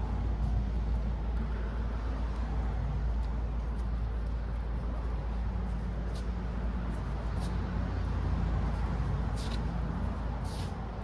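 A steady low rumble throughout, with a few faint taps and scrapes from stirring the filler-and-hardener mix, mostly in the second half.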